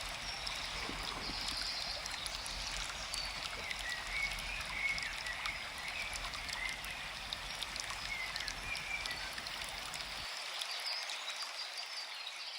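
Forest ambience: a steady rush of running water with small birds chirping over it.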